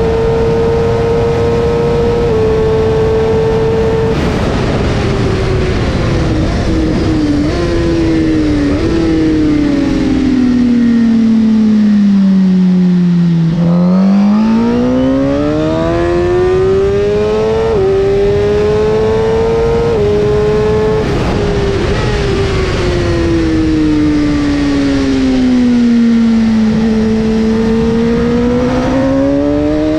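Suzuki GSX-R1000R's inline-four engine at high revs, dropping through the gears: the pitch falls steadily with short rev jumps on each downshift into a slow corner, then climbs hard out of it with brief dips at each upshift. It falls once more for a second corner and picks up again near the end.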